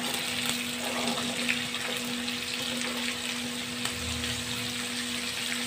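Chopped okra sizzling in hot oil in a kadhai, with light, steady crackling as it is added and spread in the pan.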